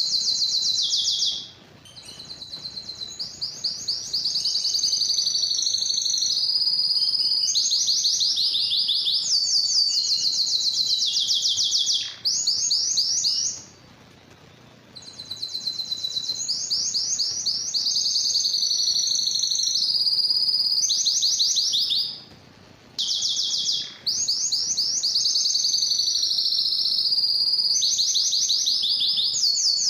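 Domestic canary singing long, high-pitched phrases of rapid repeated trills that change speed and pitch from one run to the next, with a few short pauses between phrases.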